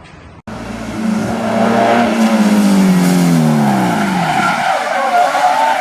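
A car's engine note falling steadily in pitch as the revs drop, over the hiss and squeal of tyres skidding, with a wavering tyre squeal near the end.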